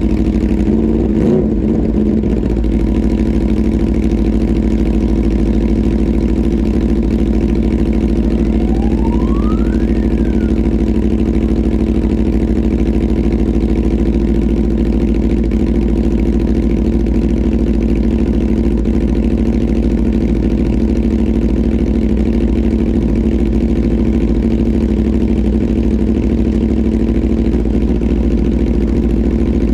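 Aprilia RSV4 RF's V4 engine idling steadily. A few knocks come about a second in, and a thin rising whine is heard about nine seconds in.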